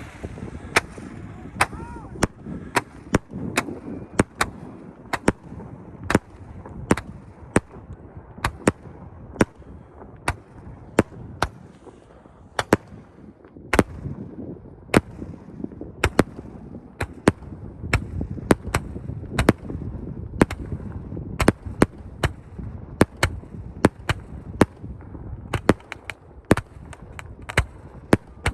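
Fireworks show: aerial shells firing and bursting in an irregular string of sharp bangs, more than one a second, over a low rumble.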